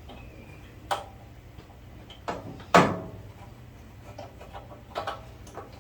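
Scattered clicks and knocks of hand tools and small metal parts being handled while a generator's carburetor linkage is put back together. The loudest knock comes a little under three seconds in.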